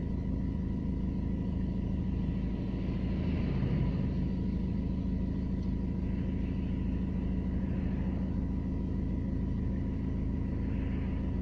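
Renault Laguna II's 1.9 dCi four-cylinder turbodiesel running under load, a steady low drone with a thin, steady high whine over it. This is the kind of recording made to show an extraneous noise the owner hears from the engine under load.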